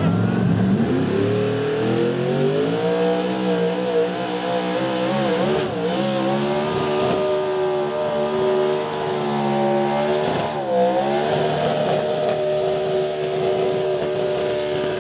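Outlaw 4x4 Chevrolet pulling truck's engine at high revs, pulling the sled under full load. The revs climb over the first couple of seconds and waver along the pull. They dip briefly about ten seconds in, then hold steady.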